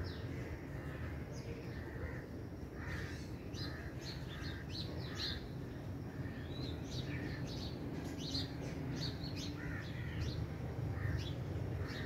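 Birds calling outdoors: a busy run of short, high chirps throughout, over a steady low background rumble.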